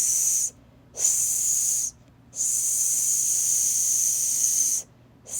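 A person hissing a steady 'sss' into a microphone as a voice command to steer a mouse pointer, where each stop in the hiss changes the pointer's direction. The hisses come separately: a short one right at the start, one of about a second, a long one of about two and a half seconds, and another starting near the end.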